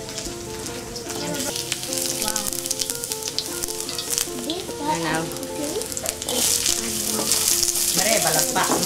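Garlic and shallot sizzling in hot oil in a wok, turned with a spatula that scrapes the pan; the sizzle grows louder about six seconds in.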